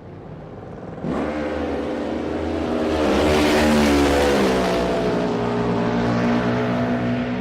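Motorcycle engine fading in, then revving up sharply about a second in. It is loudest around the middle, then runs at a fairly steady pitch and eases off slightly near the end.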